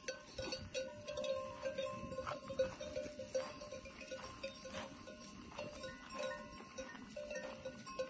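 Livestock bells on a grazing flock of sheep, clanking irregularly with several overlapping ringing tones.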